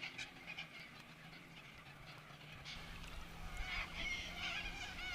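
Birds calling: faint at first, then a run of repeated calls in the last second and a half or so, over a faint steady low hum.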